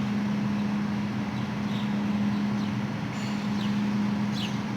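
Steady low mechanical hum over a wash of noise, with a few faint, quick, falling bird chirps.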